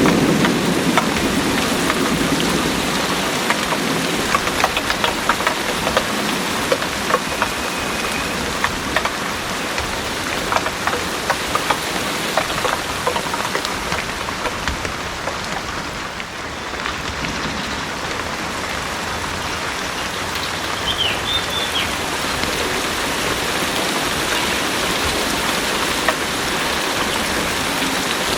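Heavy rain pouring steadily, with many individual drops tapping through it. The tail of a thunder rumble fades out in the first second or two.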